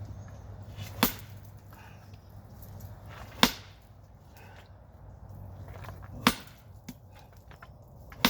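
Sledgehammer striking a rock, four sharp cracks about two and a half seconds apart.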